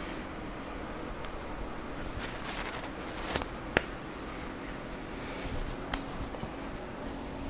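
Hands rubbing and kneading skin in a strong back massage, a soft continuous rustle, with a few sharp slaps or blows, the clearest near the middle.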